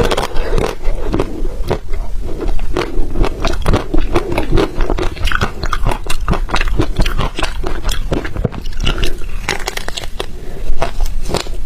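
Ice being bitten and chewed close to the microphone: a dense, irregular run of loud crunches and sharp cracks.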